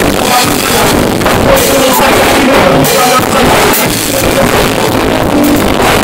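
Live rock band playing, with a drum kit keeping a steady beat, recorded loud and muddy.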